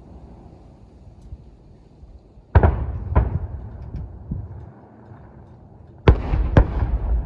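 Aerial fireworks shells bursting: two booms about half a second apart a few seconds in, then three more in quick succession near the end, each trailing off in a low rumble.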